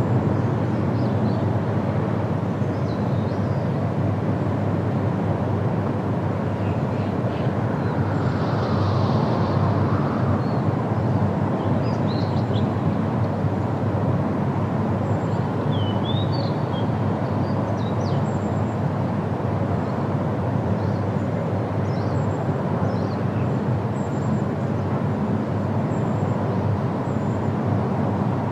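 Steady low outdoor rumble of background noise, with a few faint, short, high bird chirps scattered through it.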